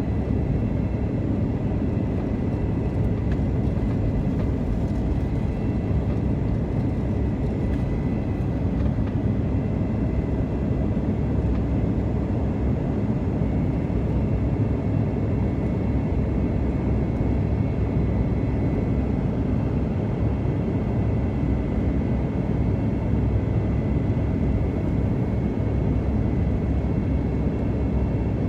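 Steady airliner cabin noise in flight: a deep, even rumble of engines and rushing air, with a faint steady high tone on top.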